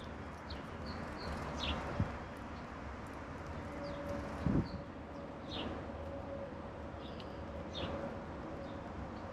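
Garden songbirds giving short, sharp falling chirps every second or so over a steady outdoor hiss. Two soft low thumps come about two and four and a half seconds in, and a faint steady hum runs through the second half.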